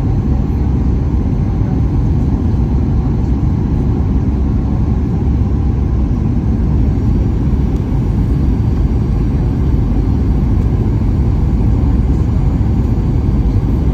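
Steady low rumble of a Boeing 737-800's CFM56-7B jet engines and rushing airflow, heard inside the passenger cabin on approach to landing.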